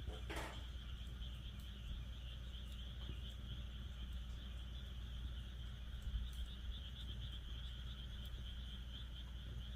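Wood fire crackling in a fire pit, with scattered small pops and one louder crack just after the start, over a steady, high-pitched chorus of calling frogs and insects.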